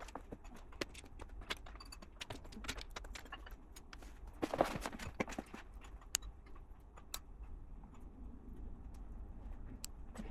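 Plastic LEGO pieces clicking and rattling as they are handled: a scatter of sharp clicks, with a denser clatter about four and a half seconds in.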